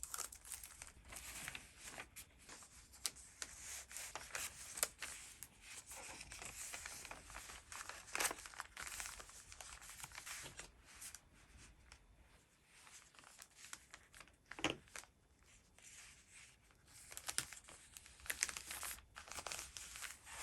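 Paper and plastic packaging being handled while an order is packed: irregular rustling, crinkling and tearing, with a few sharper snaps.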